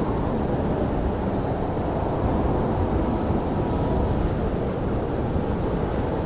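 Steady low rumble of railyard ambience in winter, an even noise with a thin, constant high whine over it and a couple of faint high chirps.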